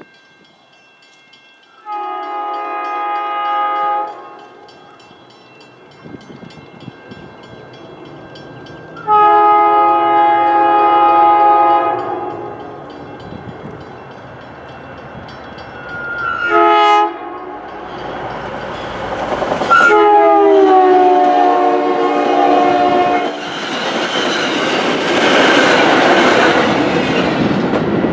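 MBTA commuter rail locomotive sounding its chime horn in the grade-crossing pattern, long, long, short, long, as it approaches. The last blast drops in pitch as the train draws level, and the loud rumble of the passing train follows.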